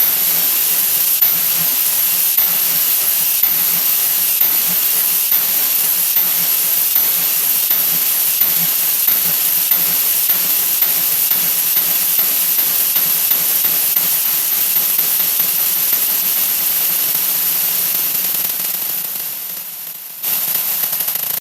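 A 'wha wha' sound effect played back at extreme speed, blurred into a steady high hiss with a faint tick about once a second. It fades out near the end and gives way to a different, quieter sound.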